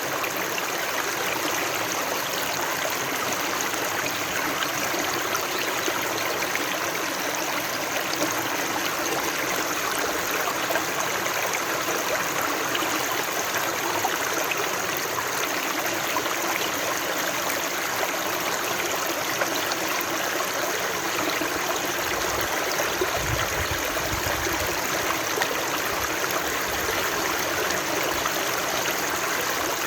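Stream water running and trickling steadily, with a brief low rumble a little after two-thirds of the way through.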